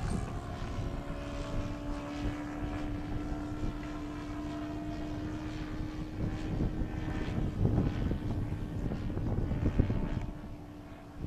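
YS 110 supercharged four-stroke glow engine of a radio-controlled model plane running at a high, steady speed through its two-blade propeller, with wind buffeting the microphone. The engine sound drops off a little near the end.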